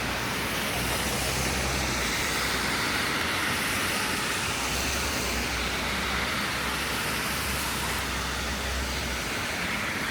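Steady hiss of rain and traffic on wet city streets, with a low vehicle rumble that swells twice.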